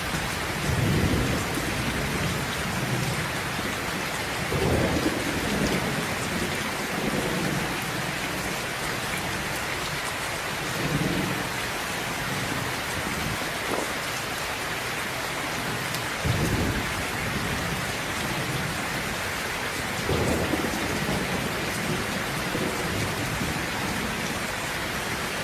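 Steady rain falling, with distant thunder rumbling low several times. The sharpest rumble comes about two-thirds of the way through.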